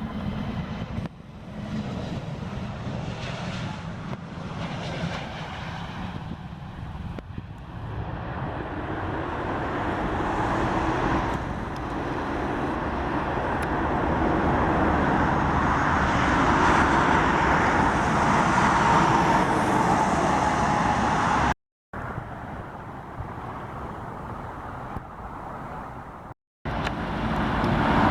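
Jet airliner engines passing on the runway, the noise building steadily to a loud peak with a faint whine, then cut off abruptly twice near the end.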